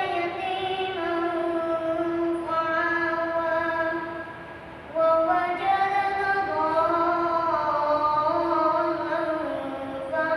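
A boy's voice chanting Quran recitation in Arabic, melodic and drawn out in long held phrases, with a pause for breath about four to five seconds in before the next phrase begins.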